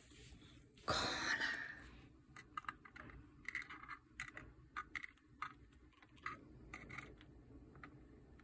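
Cockatiel biting and nibbling a desk mat with its beak: a louder scraping burst about a second in, then a scattered run of small crisp clicks and crunches.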